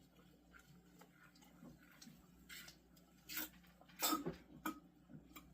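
Faint gulping and swallowing as a can of beer is shotgunned, mostly quiet at first, then several soft short gulps in the last two seconds.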